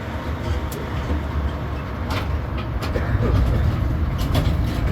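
Tourist road train riding along, heard from on board: a steady low engine rumble with road noise and a few short rattles from the carriages about two to three seconds in.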